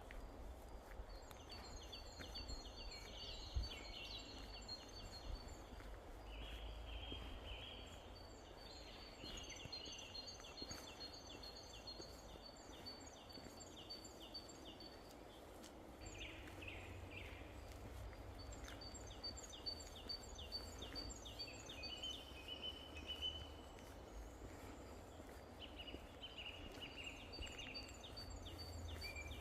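Outdoor wildlife: repeated high, rapid trilling calls in runs of a few seconds each, over a low rumble.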